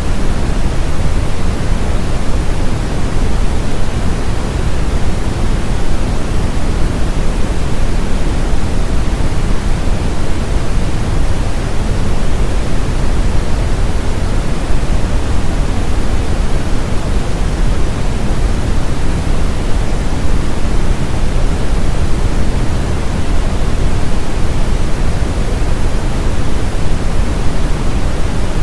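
Steady, unchanging brown noise, a deep rushing hiss with most of its weight in the low end, used as a tinnitus-masking sound.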